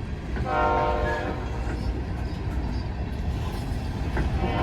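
Freight diesel locomotive horn sounding a chord of several notes: one blast starting about half a second in and fading out within about a second and a half, a second starting near the end, over the steady low rumble of a moving empty coal train.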